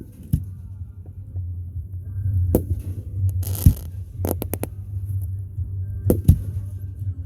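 Fireworks going off: a series of sharp bangs at uneven intervals, three in quick succession past the middle, with a short hiss just before them. Steady background music runs underneath.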